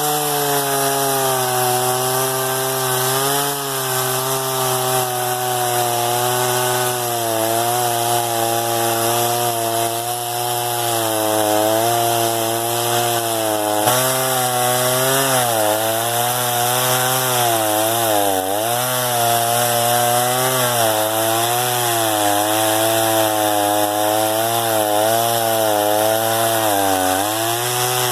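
Hoteche chainsaw running at high speed and cutting wood, its engine pitch dipping and recovering again and again in the second half as the chain bites.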